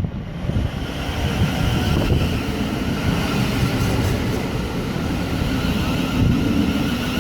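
A train running past close by: a loud, steady rumble of wheels on rail with a faint whine above it, building up about half a second in.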